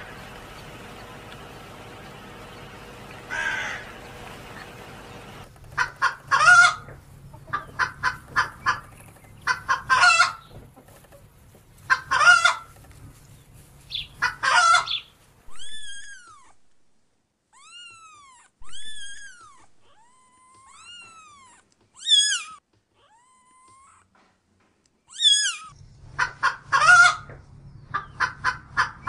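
A crow caws once about three seconds in. Then chickens cluck in rapid bursts, then chicks give short high peeps that rise and fall, and the clucking returns near the end.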